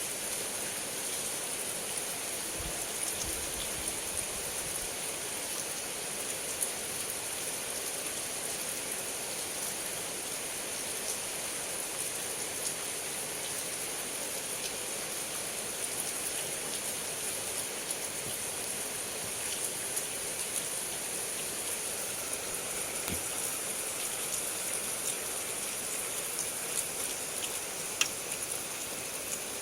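Heavy rain falling steadily: an even hiss, with many small sharp ticks of drops striking, and one louder tick near the end.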